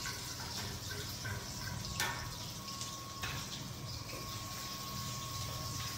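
Ginger, garlic and chili sizzling in hot oil in a wok, stirred with a wooden spatula that knocks on the wok about two and three seconds in. A steady hum runs underneath.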